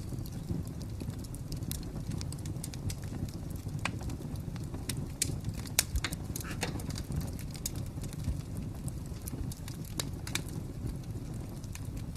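Wood fire crackling: irregular sharp pops and snaps over a steady low rumble, with a few louder pops in the middle.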